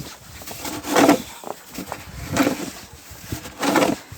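Snow shovel scooping and scraping snow in three strokes, a little over a second apart.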